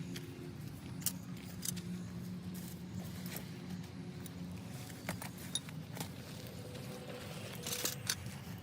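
Scattered clicks and light clinks of small hard parts being handled, several in a row near the end, over a steady low hum.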